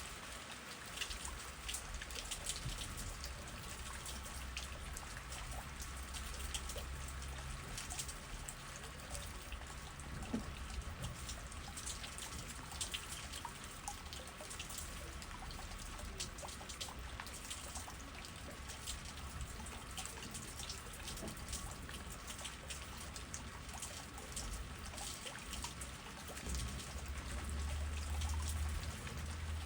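Steady rain with many separate drops and drips striking close by, over a low rumble of wind that swells near the end.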